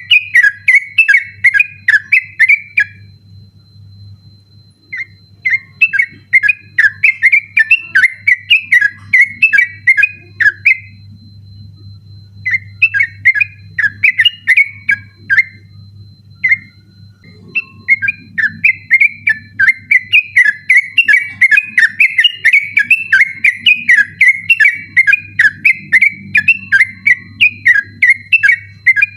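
Yellow-vented bulbul (trucukan) singing its rapid 'ropel' song: long runs of quick, chattering whistled notes, broken by short pauses about 3, 11 and 16 seconds in. A steady low hum runs underneath.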